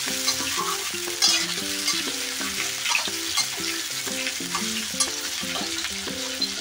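Potato and cauliflower pieces sizzling as they fry in hot oil in a metal kadhai, while a metal spatula stirs them and scrapes and clicks against the pan. A tune of quick short notes runs underneath.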